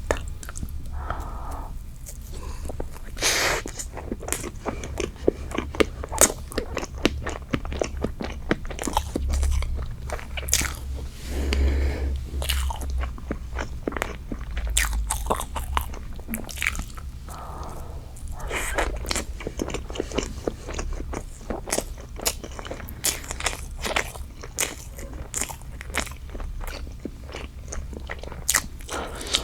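Close-miked eating sounds: biting into and chewing a soft strawberry cream dessert with pieces of fresh strawberry, with many small wet clicks, smacks and light crunches.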